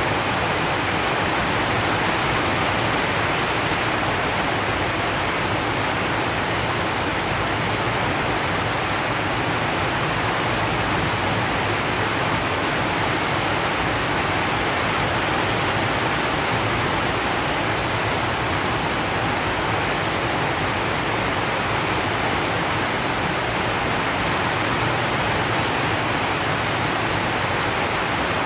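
Steady rain falling on a zinc roof, heard as an even, unbroken hiss with no single drops or gusts standing out.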